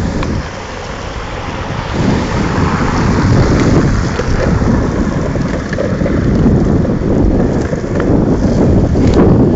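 Wind buffeting the microphone over the rumble and hiss of longboard wheels rolling on wet pavement, loud and steady.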